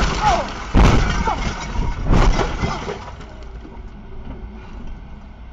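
Car crash recorded by a dashcam: a loud impact about a second in and another about two seconds in, with smashing and breaking sounds, then steady vehicle and road noise.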